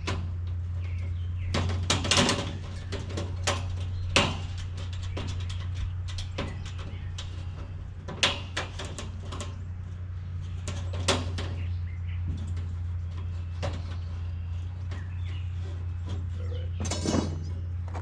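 Galvanized steel raised-bed panels and hardware being handled during bolt-together assembly: scattered metallic clinks and knocks as bolts, washers and nuts are fitted, with a short rattle near the end, over a steady low hum.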